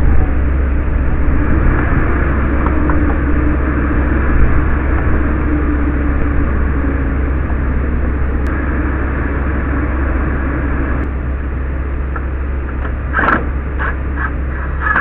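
Street sweeper running steadily. Near the end comes a quick series of short, sharp sounds.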